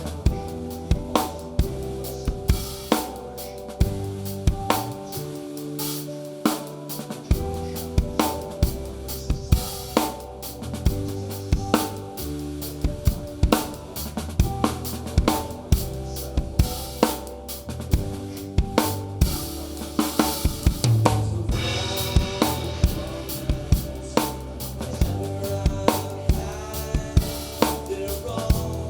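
Rock band playing live, with a close-miked drum kit out front: steady snare and bass-drum hits with cymbals and hi-hat over bass and guitar.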